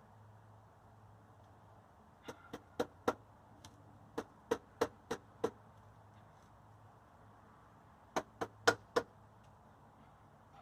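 Rubber mallet tapping parts into place on a Honda CT70 so they are not wobbly. The strikes come in three quick runs of sharp knocks, about a dozen in all.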